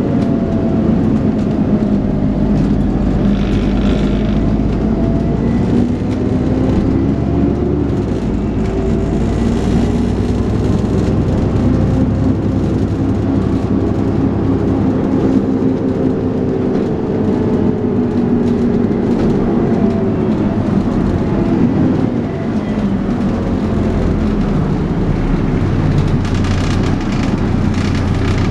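Dennis Trident 2 double-decker bus engine working hard, its note rising and falling several times as the bus pulls and eases off, over a thin steady high whine of the kind bus enthusiasts call a 'hoover'.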